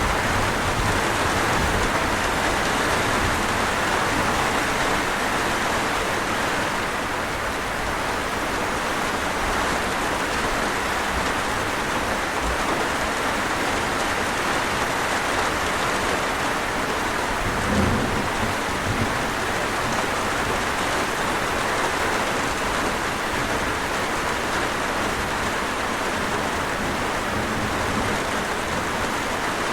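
Steady heavy rain falling, an even hiss of drops. About two-thirds of the way through, a brief low thump rises over it.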